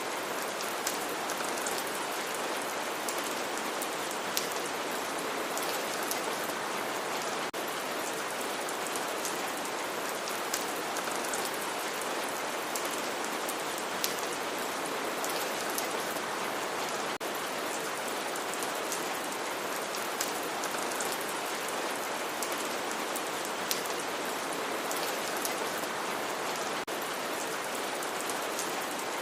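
Steady rain: an even hiss with many small drops ticking through it.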